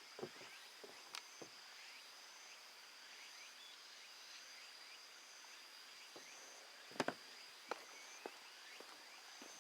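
A faint chorus of insects: one high, steady trill with shorter calls repeating above it about once a second. A few light clicks and knocks are scattered through, the sharpest about seven seconds in.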